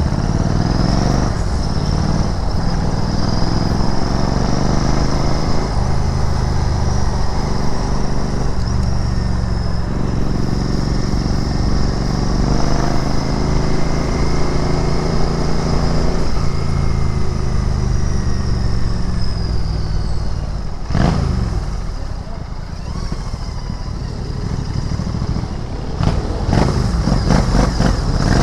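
Royal Enfield Interceptor 650's parallel-twin engine under way, its pitch rising and falling repeatedly through acceleration and gear changes. It eases off about two-thirds of the way through, then pulls again near the end.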